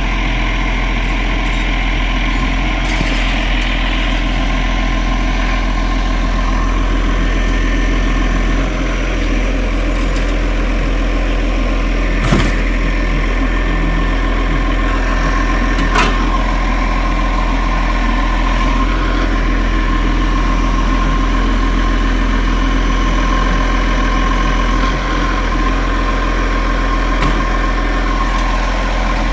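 Garbage truck's diesel engine idling steadily, with two short sharp knocks, about twelve and sixteen seconds in.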